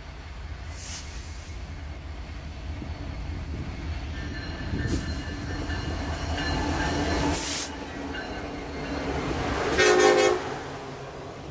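Train approaching with a low rumble that builds steadily, and a locomotive horn sounding one short loud blast about ten seconds in.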